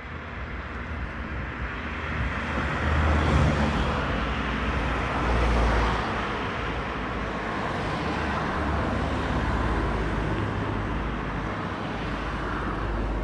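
BMW R1200GS flat-twin motorcycle on the move: a steady rush of wind and road noise with low rumble, swelling over the first few seconds.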